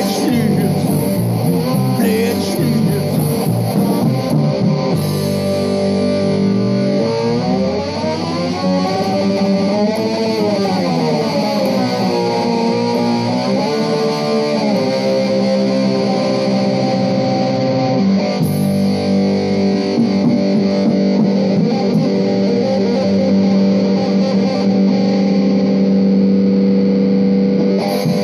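Live rock band's distorted electric guitars and bass holding sustained, ringing chords without vocals. A pitch bend rises and falls in the middle, and a long held chord closes it out.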